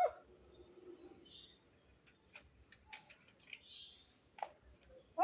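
A pet parrot gives a short pitched call right at the start, and another call begins at the very end. In between it is fairly quiet, with a few faint clicks over a steady, thin, high-pitched tone.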